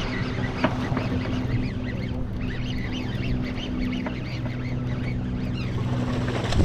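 A boat engine idles steadily, with many short, high chirping calls over it.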